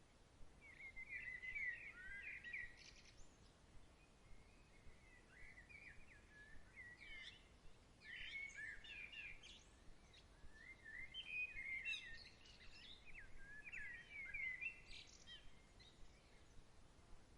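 A songbird singing in bouts of quick warbling, chirping phrases, four runs with short pauses between, over a faint steady outdoor hiss.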